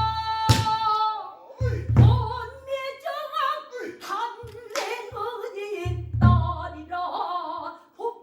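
Pansori singing: one voice sliding and wavering in long sung phrases, accompanied by a buk barrel drum whose strokes land a few times, some deep and booming, some sharp and dry.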